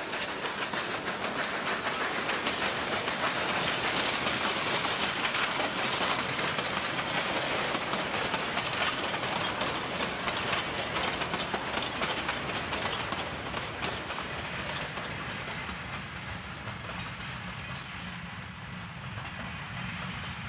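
Narrow gauge steam-hauled freight train going by close at hand: the locomotive passes, then empty flat cars and pipe gondolas roll past with the wheels clattering on the rails. Loudest a few seconds in, easing off toward the end as the cars keep rolling.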